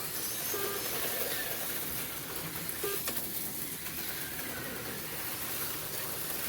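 HO-scale slot cars running around the track, a steady whirring buzz from their small electric motors, with one sharp click about three seconds in.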